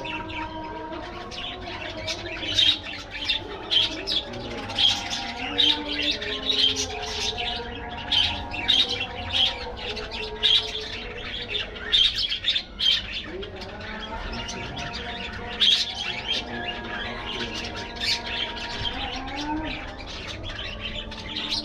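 A flock of budgerigars chattering and chirping, with many sharp chirps over a continuous warbling.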